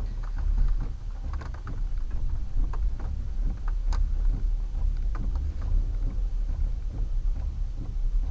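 Car heard from inside the cabin: a steady low rumble with scattered sharp taps over it.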